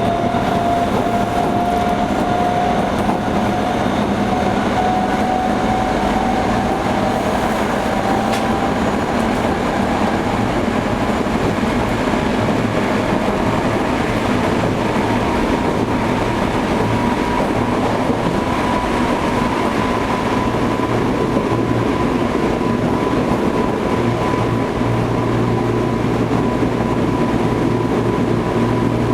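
Toei 5300 series electric train running, heard inside the car: a steady rumble of wheels on rail under a motor whine that rises slowly in pitch through the first half, then holds steady.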